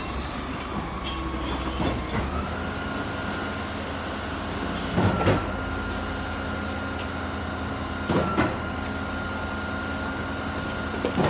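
Engine-driven machinery running steadily; its pitch steps up about two seconds in. A heavy knock comes roughly every three seconds, three times.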